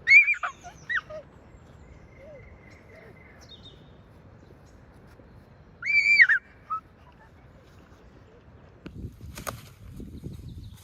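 A bird calling loudly: two short, high, arched calls, one right at the start and another about six seconds in. A few knocks or steps come near the end.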